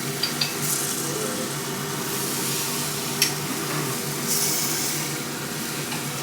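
Chicken wings sizzling as they cook, with a steady hiss and louder surges of sizzle near the start and again around four seconds in. There are light metal clicks near the start and a sharp click about three seconds in, as the wings are being turned.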